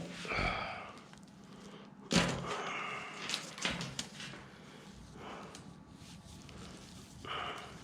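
Knocks and rustling from handling a bundled car wiring harness: a thud at the start and a louder one about two seconds in, with scraping and crinkling in between.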